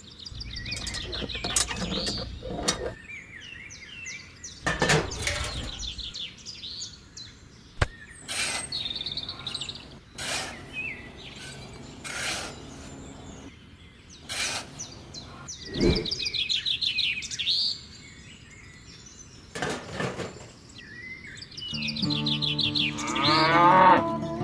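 Birds chirping in short repeated phrases, with scattered sharp clicks and knocks between them. Music comes in near the end.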